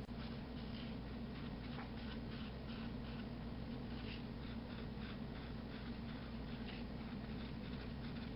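A pen scratching on paper in quick short strokes, drawing cross-hatching, over a steady low hum.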